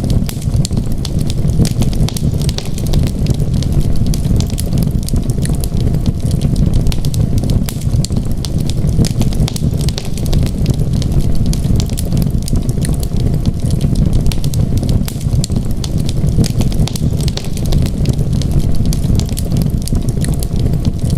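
Wood fire crackling in a fireplace: a dense, continuous run of small sharp pops over a steady low rumble.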